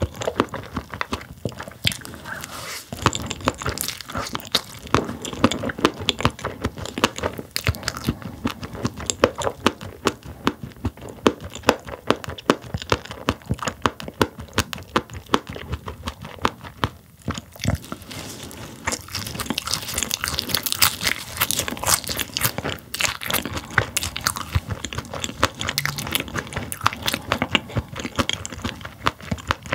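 Close-miked chewing and crunching of roe-filled sailfin sandfish: the packed eggs crunch between the teeth in dense, rapid little clicks, with the crunching brightest a little past the middle.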